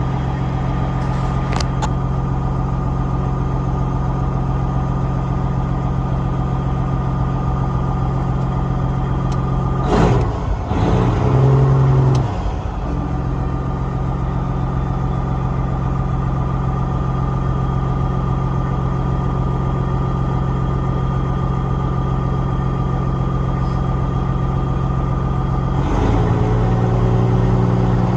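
Peterbilt 379 diesel engine idling while it builds air pressure, with the low-air warning buzzer sounding as a steady high tone. The engine revs briefly about ten seconds in, and it runs faster and louder near the end to speed up the air build.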